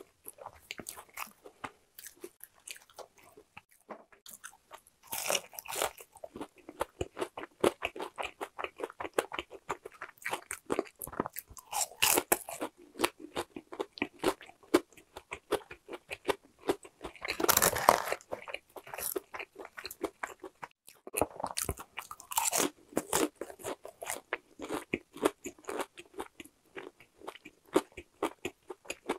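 Close-miked chewing of crispy-coated boneless fried chicken: a steady run of crackling crunches as the fried coating breaks, with several louder bites, the loudest about eighteen seconds in.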